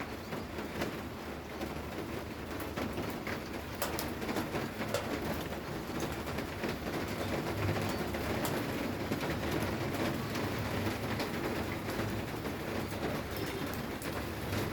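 Steady rain falling, with many scattered drops striking close by as sharp little hits.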